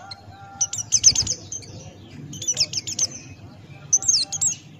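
A pleci buxtoni white-eye singing in quick, high twittering phrases, three short bursts about a second and a half apart, over a faint low hum.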